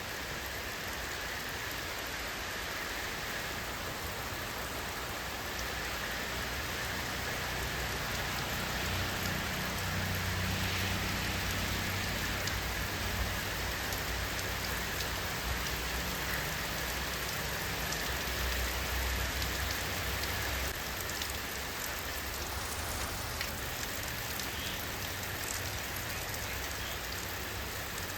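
Steady rainfall, a dense hiss of drops pattering on a surface. A low rumble swells in underneath from about a third of the way in and fades again after two thirds.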